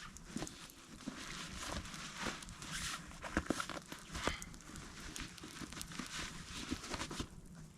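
A synthetic sleeping bag with a taffeta shell being handled and unpacked: faint fabric rustling and crinkling with scattered small clicks, likely from its compression straps.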